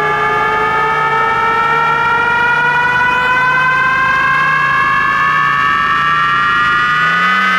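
DJ-remix build-up effect: a siren-like synthesizer riser of several stacked tones climbing slowly and steadily in pitch, over a low pulsing tone that swells a bit under twice a second.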